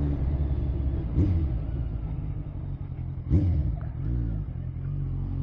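Motorcycle engine running as the bike is ridden, a steady low note with two brief swoops in pitch, about a second in and again past three seconds, and the engine note climbing near the end.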